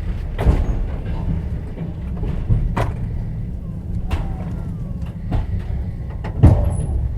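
Moving passenger train heard from inside a platzkart sleeping carriage. A steady low rumble runs under sharp clacks of the wheels knocking over rail joints every second or two, the loudest about six and a half seconds in.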